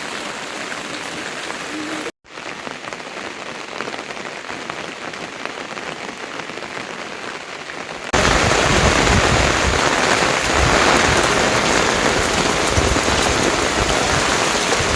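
Steady rain falling, a dense even hiss. The sound cuts out for a moment about two seconds in, and about eight seconds in it jumps to much heavier, louder rain.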